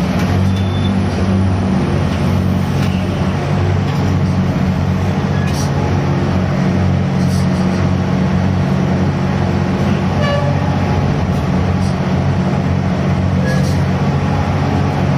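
Steady low drone of a gut ship's diesel engine running under load while its grab crane unloads cargo, with a few faint ticks over it.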